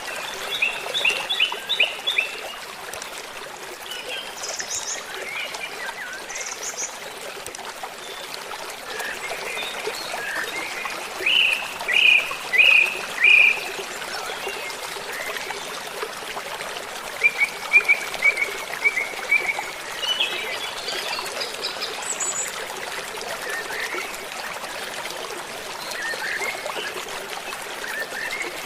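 Water trickling steadily like a stream, with birds chirping over it in short groups of calls; the loudest is a run of four notes about twelve seconds in, followed by a quick series of chirps a few seconds later.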